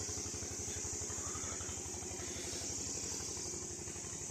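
Steady high insect chorus, with a low, evenly pulsing engine hum underneath that runs without change.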